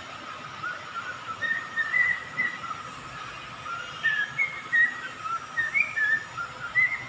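Pet bird whistling a string of short, clear notes that glide up and down, in small groups with brief gaps between them.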